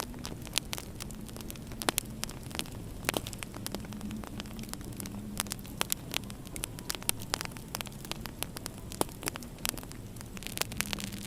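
Wood fire crackling in a fireplace, with irregular sharp pops and snaps, over a steady low hum.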